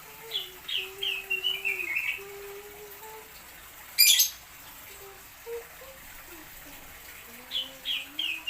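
A small songbird singing a short phrase of quick, falling chirps, twice: near the start and again near the end. About four seconds in there is a single sharp, loud click, over low, drawn-out tones.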